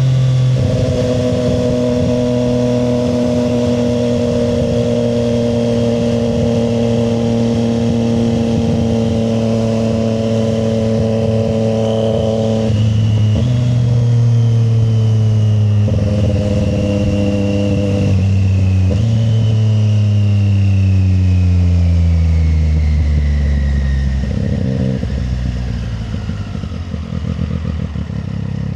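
Triumph Street Triple 765 RS's inline three-cylinder engine under way, its pitch sagging as the bike slows and stepping back up at each of several downshifts. A short blip about 25 seconds in, then the engine settles to a low, near-idle note near the end.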